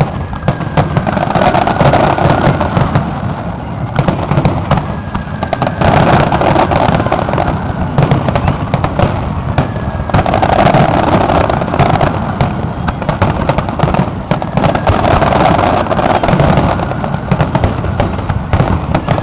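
Aerial fireworks in a dense, continuous barrage: rapid overlapping bangs and crackling with no gaps, swelling every few seconds, the rolling roar of a grand finale.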